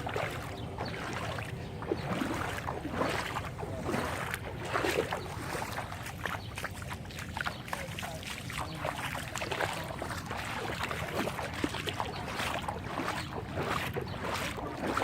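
Floodwater splashing and sloshing in many small irregular bursts over a steady low rumble.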